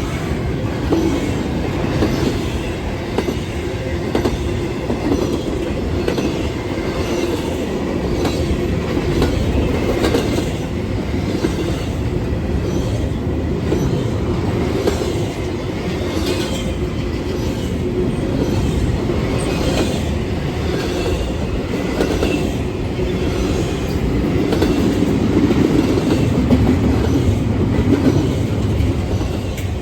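Freight train cars rolling past on the Norfolk Southern Fort Wayne Line, a steady rumble with the wheels clicking over the rail joints in a repeating rhythm.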